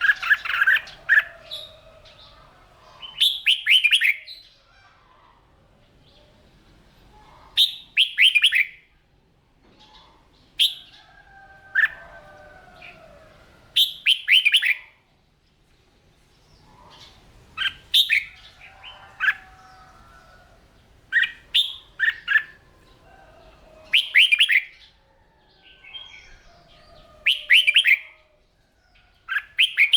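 Red-whiskered bulbul singing: short, loud, whistled phrases repeated every two to four seconds, with quieter, lower warbling between them.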